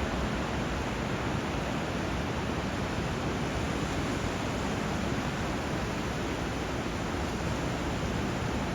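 Steady rush of flowing water, even in level, with no separate wave breaks.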